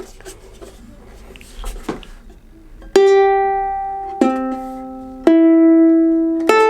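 A Donner DUC4E concert electro-acoustic ukulele strummed four times, one chord about every second, each chord left to ring and fade. Before the first strum there are a few faint handling taps.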